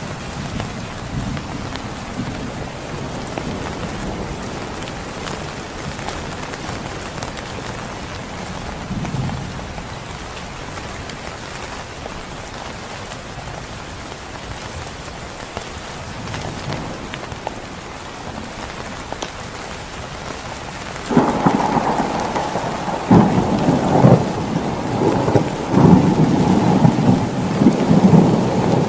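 Heavy rain falling steadily, with distant thunder rumbling low. About three-quarters of the way through, a close thunderclap breaks in much louder, with sharp cracks and a rolling rumble that goes on to the end.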